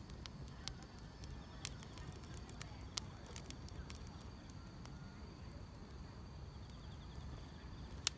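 Wood fire crackling, with scattered sharp pops, the loudest just before the end, over a low steady rumble. Faint insects chirp in a high, finely pulsing trill behind it.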